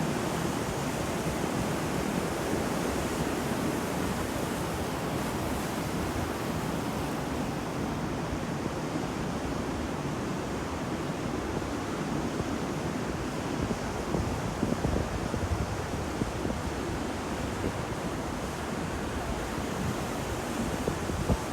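Sea surf washing on a shore, a steady rush of waves with slight swells in loudness.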